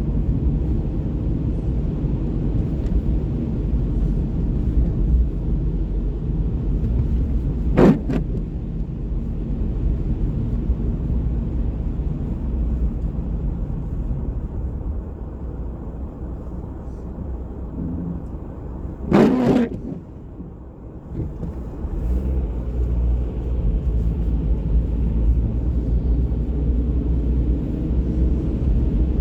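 Steady low rumble of city street traffic, with a short sharp knock about 8 seconds in and another, louder one about 19 seconds in; the rumble eases for a couple of seconds after it.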